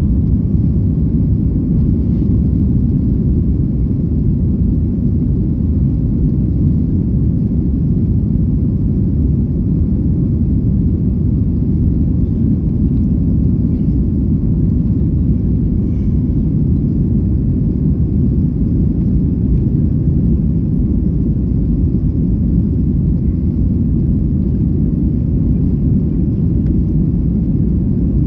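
Steady low rumble of an airliner's jet engines and rushing air, heard from inside the cabin, holding even throughout.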